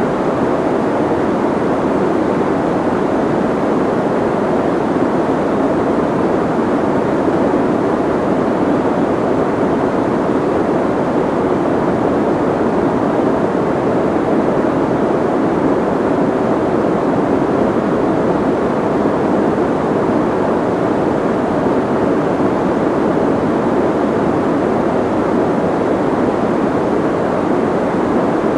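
Soft white noise: a steady, even hiss, muffled rather than bright, with most of its weight in the deeper part and little treble.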